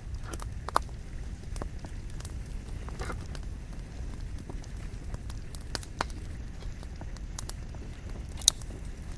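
Wood fire burning: a steady low rush of flame with scattered sharp crackles and pops from the burning logs. The loudest pops come about a second in and near the end.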